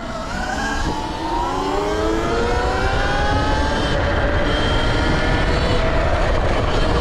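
Sur-Ron electric dirt bike's motor whining as the bike accelerates, its pitch rising over the first few seconds and then holding steady, over a heavy low rumble of wind on the microphone.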